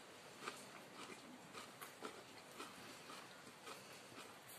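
Faint mouth sounds of a person chewing food: soft smacks and clicks about twice a second.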